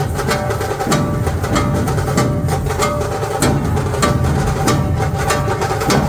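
A dhol drum team playing together: deep, continuous drumming with sharp strokes in a steady, even rhythm.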